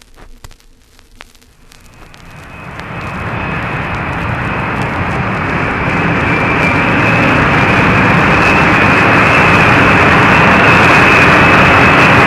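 Vinyl record surface noise with clicks, then a jet aircraft approaching: a rushing engine noise with a steady high whine grows from faint to loud over about four seconds and stays loud.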